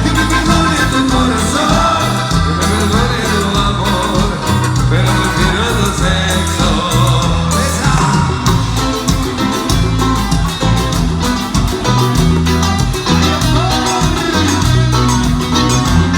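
Cuarteto band music in an instrumental passage: a steady dance beat under a bass line that changes note in a regular rhythm.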